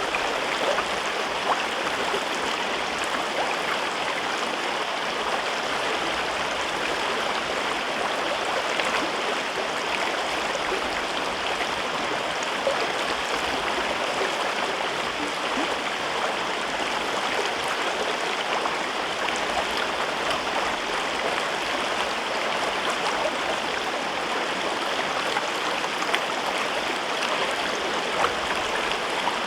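Mountain river flowing steadily: an even rush of water with small splashes and gurgles scattered through it.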